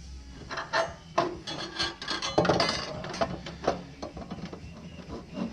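Metal clinks, knocks and scraping of hand tools and exhaust hardware being worked on during a downpipe install, a quick irregular run of clicks and rattles that is busiest in the middle, over a low steady hum.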